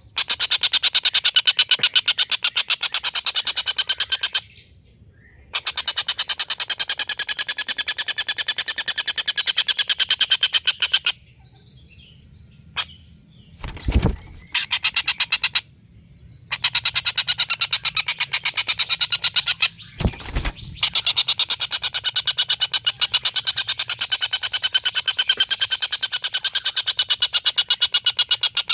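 A collared kingfisher (tengkek buto) giving long, fast cackling strings of repeated 'kek' notes. There are three breaks in the calling, and two short low thuds fall in the pauses, about 14 and 20 seconds in.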